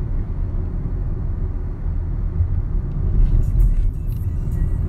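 Car cabin noise while driving: a steady low rumble of engine and tyres on the road, with a few light clicks or ticks in the second half.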